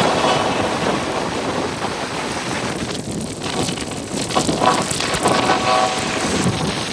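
Steady rushing road and wind noise from a moving car, with faint held tones around the middle.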